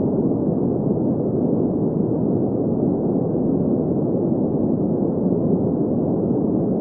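Steady green noise: an even, unchanging hiss centred in the mid-low range, with little bass and almost nothing above the upper mids.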